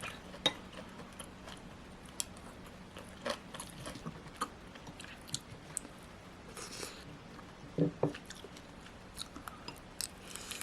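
A person chewing and biting food up close, with scattered short crunches and clicks.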